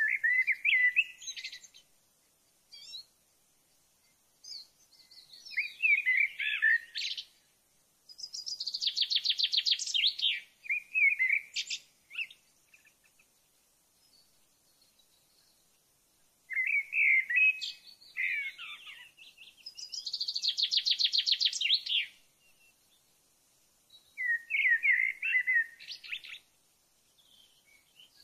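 A songbird singing, clear phrases of a second or two repeated every few seconds, some ending in a fast trill, with short pauses between.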